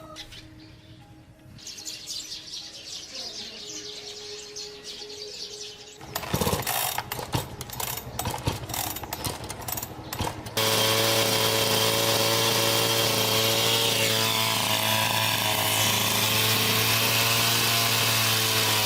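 Knocking and clatter, then about ten seconds in a two-stroke chainsaw engine starts suddenly and runs steadily at an even pitch.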